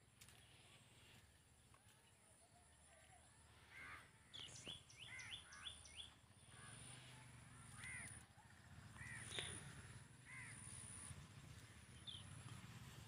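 Faint bird calls: short arched chirps, a quick series of them about four seconds in, then scattered single calls, over a low background rumble.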